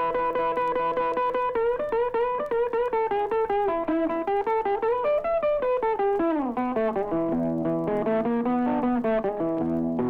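Blues guitar break between sung lines: single picked notes played over a bass line, with a run of notes falling about six seconds in.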